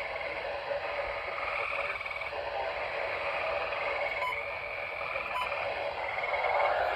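Chorus of tree frogs calling, with overlapping pulsed trills rising and falling out of a steady background of many calls.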